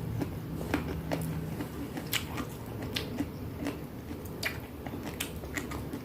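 A person chewing a mouthful of raw young eggplant: wet chewing with irregular crisp clicks and crunches.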